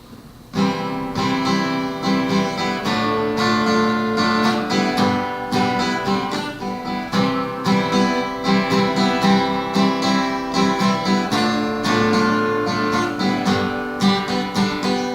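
Takamine EG-523SC acoustic guitar played solo, strummed and picked in a steady rhythm, starting abruptly about half a second in after a faint hiss.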